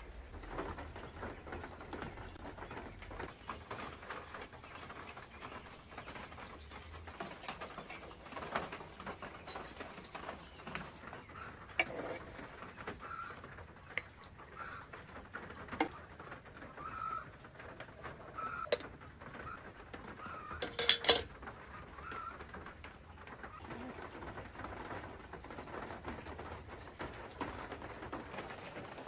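Birds calling in the background, short repeated calls through the middle of the stretch, over scattered small clicks and knocks, with a louder clatter about two thirds of the way through.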